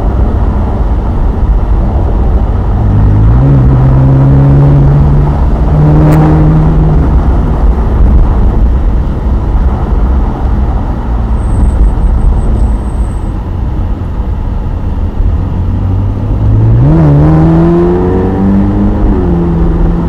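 Ferrari's engine heard from inside the open convertible as it accelerates, its note rising about three seconds in and again near the end, over a heavy rumble of wind and road noise across the open cabin.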